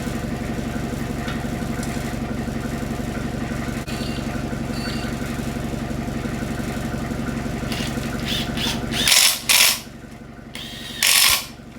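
Turbocharged SOHC engine idling steadily, then shut off abruptly about nine seconds in. Several short, loud bursts of mechanical noise follow.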